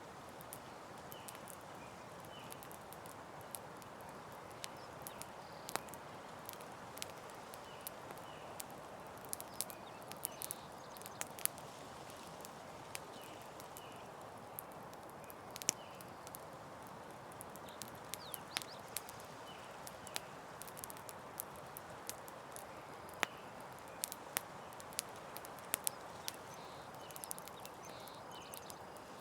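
Campfire burning with a steady soft hiss and frequent irregular sharp crackles and pops from the wood.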